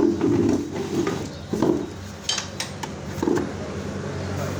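Metal tools and engine parts knocking and clinking a few times during engine disassembly, with one sharper click about halfway through.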